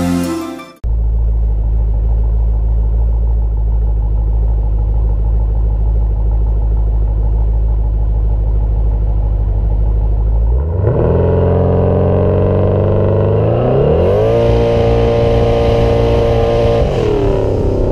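Twin-turbocharged 427 cubic-inch LS V8 in a 2013 Camaro SS, heard on board: a steady deep drone for about ten seconds, then the revs climb as the car accelerates, hold higher with a hiss joining in, and drop back near the end.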